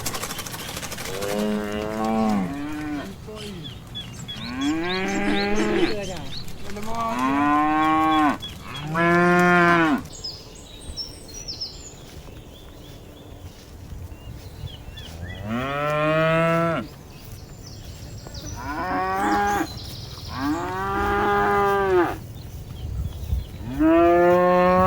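Cows mooing repeatedly, about eight drawn-out calls of one to two seconds each at differing pitches, with a lull of about five seconds midway.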